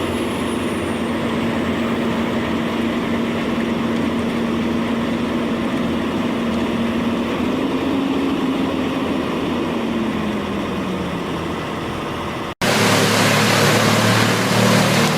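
Large engine of heavy stump-clearing machinery running steadily, its pitch rising slightly and then easing down near the end. About twelve seconds in it cuts off abruptly, and a louder, rushing machine noise of a large wood chipper running takes over.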